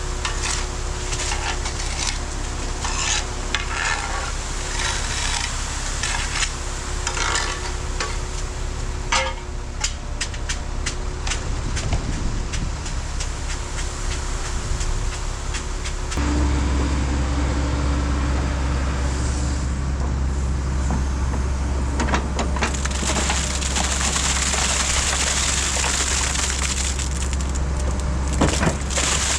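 Earthmoving machine engine running steadily, with repeated crunching and scraping of soil and debris. The engine note steps up and gets louder about halfway through, as if it is put under load.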